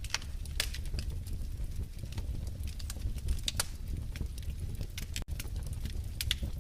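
Wood fire in a fireplace crackling: irregular sharp pops and snaps over a low, steady rumble, with a brief drop-out just past five seconds in.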